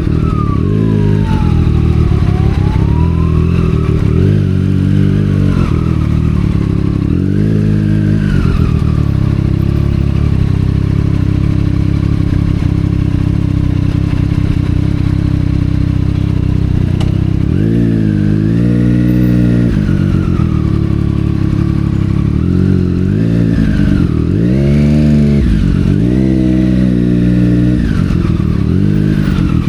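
Triumph Street Triple 765 R's inline-three engine through a Yoshimura aftermarket exhaust, riding in town: the revs rise and fall with the throttle and gear changes, hold steady for several seconds in the middle, then climb and drop quickly several times in the second half.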